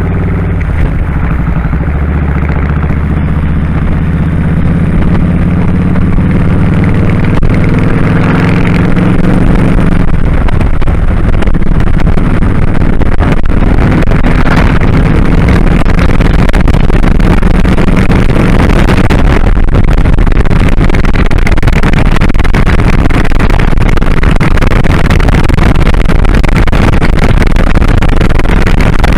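The V-twin engine of a 2001 Kawasaki Drifter 1500 motorcycle running on the road, heard from the rider's head. The engine note is clear for the first several seconds, then rushing wind on the microphone builds and largely covers it as the bike speeds up.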